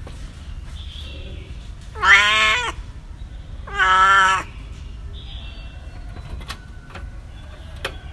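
A domestic cat meowing twice, each meow under a second long and about two seconds apart, followed by a few sharp clicks near the end.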